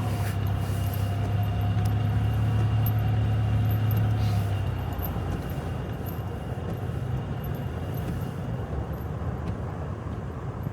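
Vehicle engine running with a steady low drone as it drives on a snowy road, easing off about four and a half seconds in to a quieter hum as the vehicle slows and stops.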